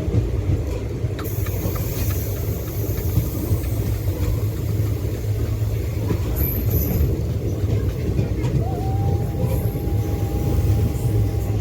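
Train running on the rails with a steady rumble. About three quarters of the way through, a single steady high tone sets in and holds.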